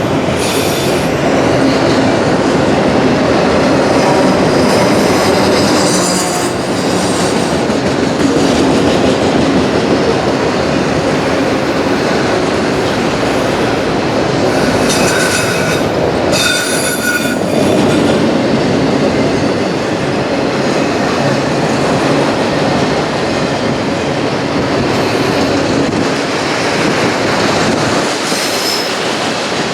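CSX autorack freight train rolling past, a continuous rumble and clatter of steel wheels on rail. High wheel squeals ring out twice about halfway through.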